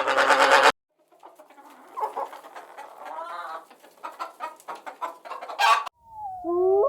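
A hen clucking in short, broken calls, with one louder squawk near the end. Just before the end a long howl begins, its pitch gliding. A loud rattling sound cuts off just under a second in.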